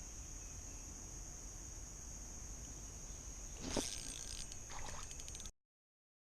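Faint, steady high-pitched drone of insects over a low rumble, with a short knock and a few clicks about two thirds in. The sound cuts off abruptly to silence near the end.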